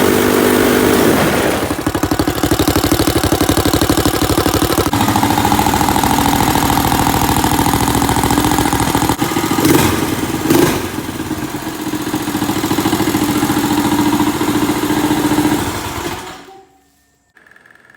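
Stage 2 Predator 212 single-cylinder four-stroke engine on a Chinese ATV, running through a straight 2-inch exhaust pipe with a deep tone. Its pitch drops about a second in and shifts up and down after that. Two sharp knocks come about ten seconds in, and the engine sound cuts off suddenly near the end.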